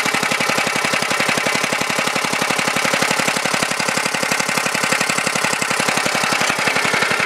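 Tecumseh H50 5 hp single-cylinder flathead engine on a go-kart, idling steadily with an even, rapid firing beat while it warms up after a cold start.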